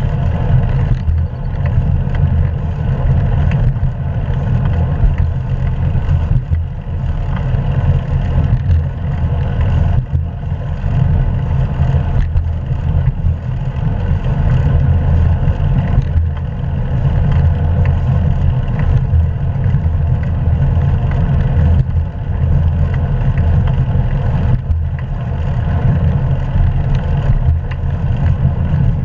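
Steady low rumble of wind buffeting an action-camera microphone while cycling, mixed with tyre and road noise.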